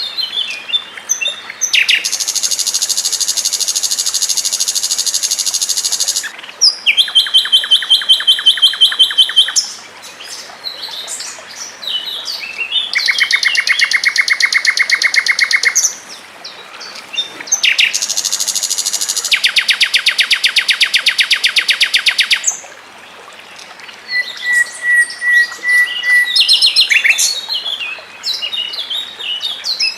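Recorded songbirds singing in long, very fast trills of rapidly repeated high notes, four runs of a few seconds each, with brief stretches of varied chirps and short phrases between them.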